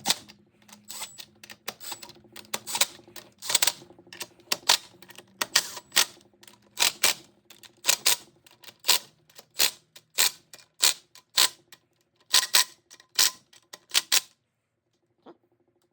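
Hand ratchet clicking in a series of sharp ticks, about two a second and sometimes in quick pairs, as bolts are run down on the Ford Toploader four-speed transmission. The clicking stops about fourteen seconds in.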